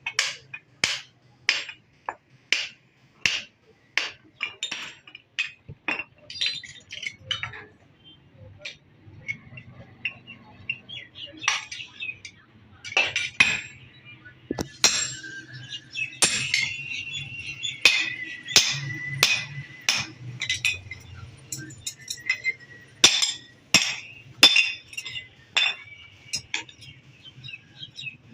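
Hammer striking hot metal on an anvil, sharp ringing clinks about two a second for the first seven seconds, then slower and irregular. Birds chirp through the second half.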